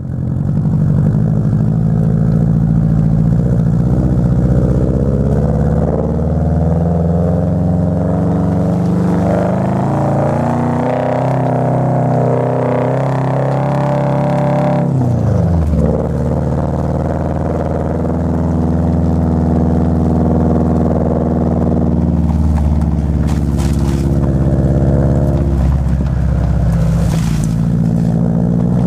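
Subaru Forester's flat-four engine and exhaust under way: the engine note climbs steadily in pitch as it accelerates, drops sharply about halfway through, then runs at a fairly even pitch.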